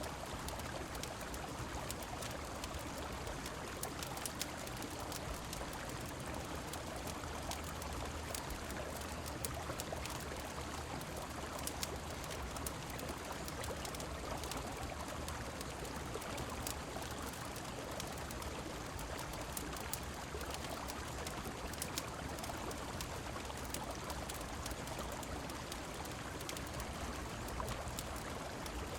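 Steady rush of river water mixed with falling rain, with scattered small sharp crackles of a wood fire.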